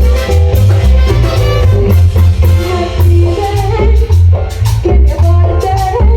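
Live Latin dance band playing amplified, with a heavy bass beat about twice a second, percussion and shakers, and melody lines over it.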